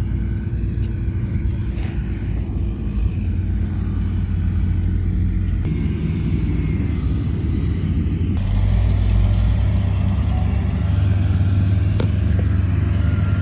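Heavy diesel construction machinery running, a steady low engine drone that changes abruptly twice and grows louder for the second half, with a single sharp metallic click near the end.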